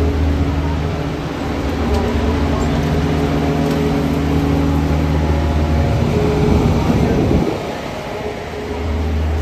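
Downtown street traffic, dominated by the steady low hum of a large vehicle's engine. Another vehicle passes about six seconds in, and the hum drops briefly after it before returning near the end.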